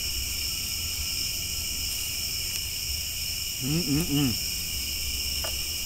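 A steady outdoor chorus of crickets and other insects, a constant high shrill with no break. About four seconds in, a man makes a short voiced sound, a brief hum or murmur.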